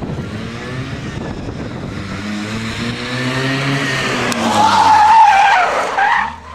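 Car engine running hard, its pitch rising and then falling, followed about four seconds in by tires squealing loudly, wavering in pitch, until it cuts off shortly before the end.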